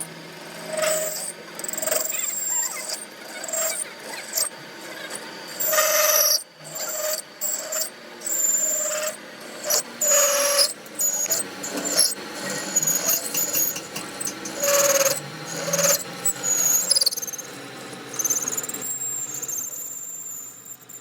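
Hand-tool work on metal: irregular scraping and rubbing strokes, several with a high squeal.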